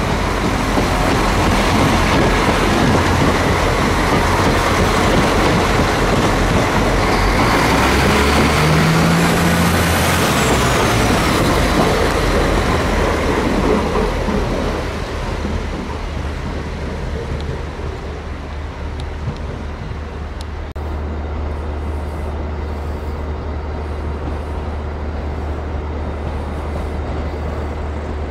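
Train moving through a station: loud, steady rumble of wheels and running gear for about fourteen seconds, which then drops away to a quieter, steady low hum.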